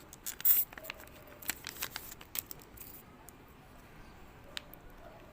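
A foil Kayou Naruto card pack being torn open and crinkled: a sharp rip about half a second in, then a few lighter rustles and clicks that thin out after about three seconds.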